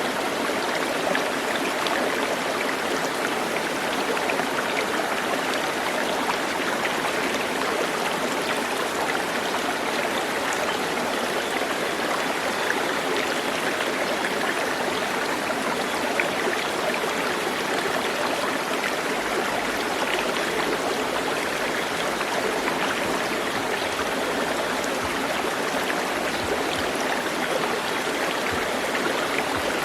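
Steady rush of flowing water, even and unchanging throughout.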